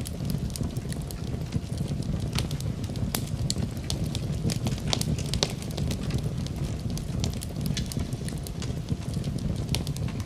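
Campfire crackling: frequent irregular pops and snaps of burning wood over a steady low rush.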